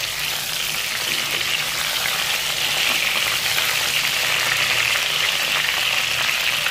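Pieces of pointed gourd (parwal) frying in hot oil: a steady, loud sizzle with fine crackles.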